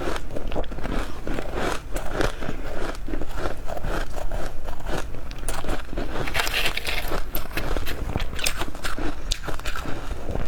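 Freezer frost being bitten and chewed close to the microphone: a dense, unbroken run of small crunches and crackles, louder for about a second some six seconds in.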